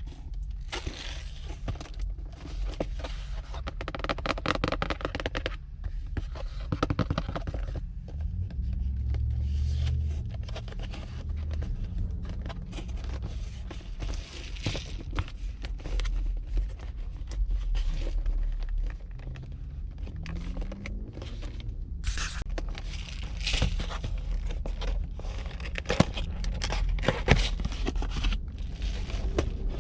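Hands handling crinkly packaging and small decoration pieces: on-and-off crinkling and rustling with light scrapes and small knocks.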